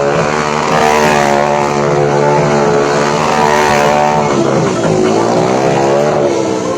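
Suzuki Gixxer motorcycle engine running at varying revs during stunt riding, the pitch wavering, then dropping and climbing back twice in the second half.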